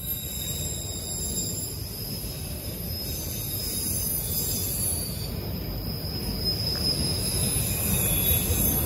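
Autorack cars of a CSX freight train rolling past, with a steady low rumble of wheels on rail and a thin, high-pitched wheel squeal over it.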